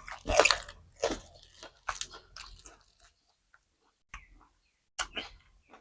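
A person biting and chewing crunchy food, pork tendon meatballs and crisp sweet peppers, in irregular crunches with a pause about three seconds in and two more bites near the end.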